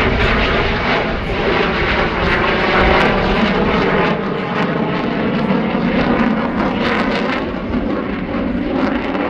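RAAF F-35A Lightning II's single Pratt & Whitney F135 afterburning turbofan: loud, steady jet noise from the fighter flying its airshow display, easing slightly near the end.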